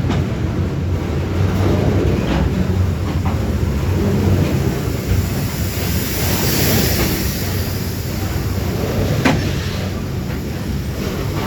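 Grain train rolling past: a steady rumble of steel wheels on rail with scattered clicks, and one sharp clack about nine seconds in.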